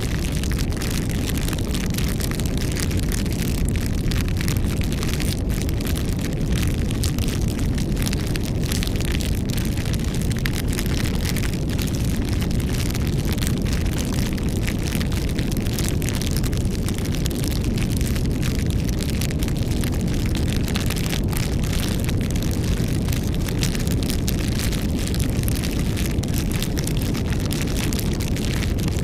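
Wood campfire burning: a steady low rumble of flames with constant small crackles and pops throughout.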